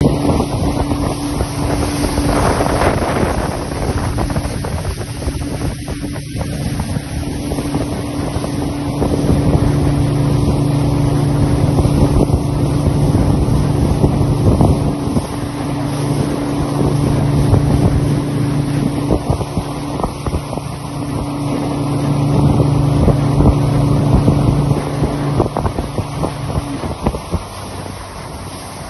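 A small motorboat's engine running steadily underway, with wind buffeting the microphone and water rushing past the hull. Near the end the engine's steady note drops away.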